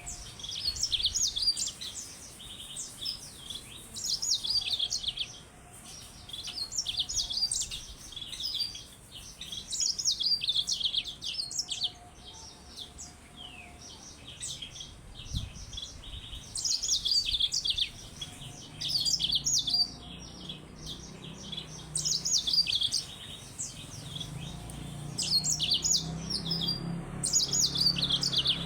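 Yellow-fronted canary (Mozambique canary) singing: fast, twittering song phrases repeated about every three seconds, with a faint low hum in the background toward the end.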